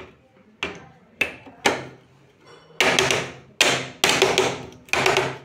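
A series of sharp knocks on something hard: three single knocks in the first two seconds, then four quick flurries of blows.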